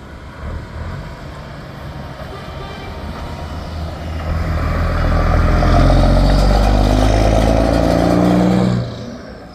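A heavy truck's diesel engine pulling past close by, growing steadily louder with a slight rise in pitch, then cutting off abruptly near the end.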